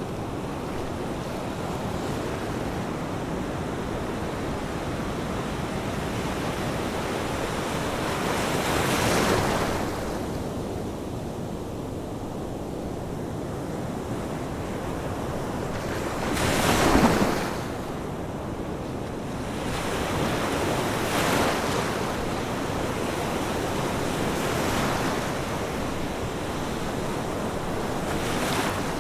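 Ocean waves breaking on a shore over a steady wash of surf, with separate breakers about every four seconds; the loudest breaks about seventeen seconds in.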